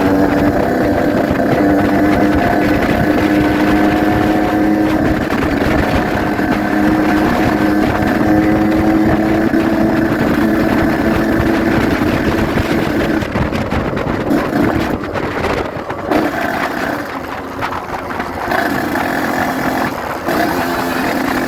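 Yamaha RX-King 135cc single-cylinder two-stroke motorcycle engine running under way, holding a steady note for about twelve seconds before the note turns uneven and wavers.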